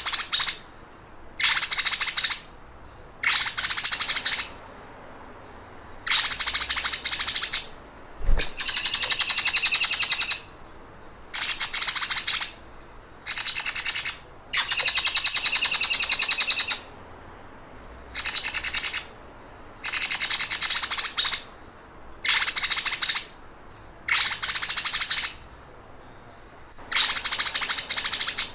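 Songbird singing the rapid, rattling 'sewing machine' (mesin jahit) trill used as a masteran for training cage birds. It comes in bursts of one to two seconds, about a dozen of them, with short pauses between.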